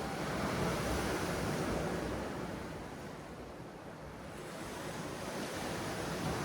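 Sea waves washing on the shore: a steady rush of surf that swells, eases off about halfway through, and builds again near the end.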